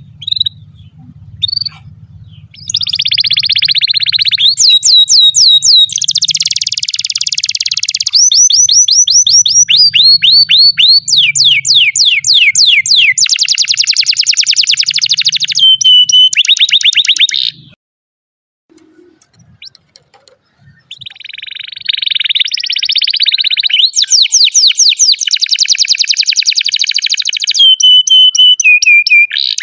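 Canary singing a long song of fast rolls and trills: runs of rapidly repeated high notes that change speed and pitch from phrase to phrase, with a short pause partway through.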